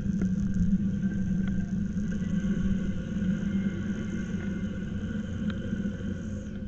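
A motor running with a steady low hum over rushing noise; near the end its pitch slides down and it stops, like a motor spinning down.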